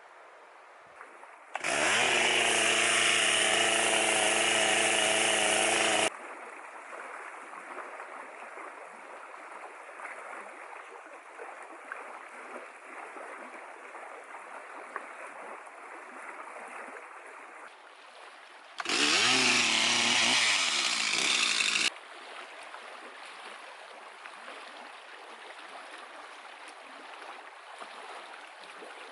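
Chainsaw revving up and running at full throttle in two bursts, one of about four seconds and a second of about three seconds, each stopping abruptly.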